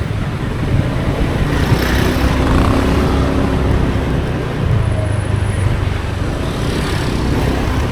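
Motorcycle taxi riding through city traffic: its engine's steady low rumble mixed with road and traffic noise.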